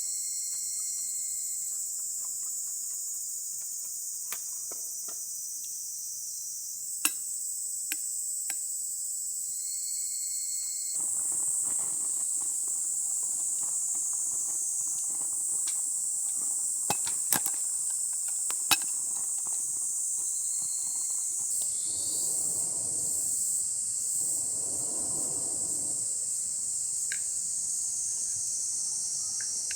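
Steady, high-pitched chorus of summer insects. A few sharp clicks and knocks break in over it.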